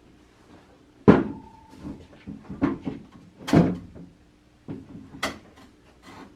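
A series of about six knocks and clunks from parts of a Manitowoc ice machine being handled, the loudest about a second in and again about halfway through, the first one leaving a brief ringing tone.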